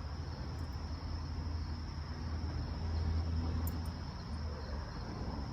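Insects, crickets by the sound, trilling steadily at a high pitch, over a low rumble that swells briefly in the middle.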